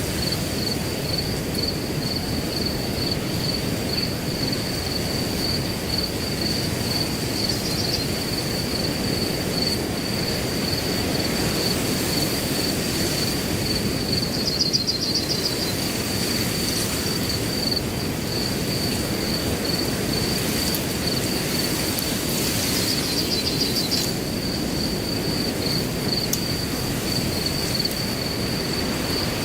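A cricket chirping steadily in a regular run of high-pitched pulses, with a brief louder trill three times. Underneath is a steady rushing noise of wind through grass.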